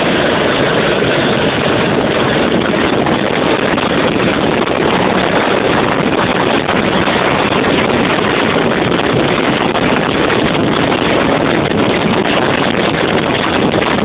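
Twin-engine kart with two 200cc Yamaha engines running at speed, a steady loud engine noise mixed with heavy wind buffeting on the onboard microphone.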